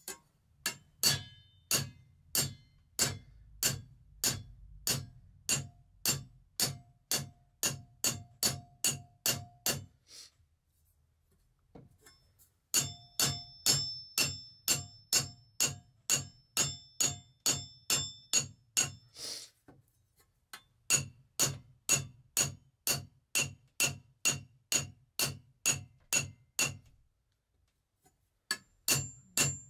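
Metal file striking the rim of a dull diamond tile saw blade, about two sharp, ringing hits a second in three runs with short pauses, roughening the diamond edge to sharpen it.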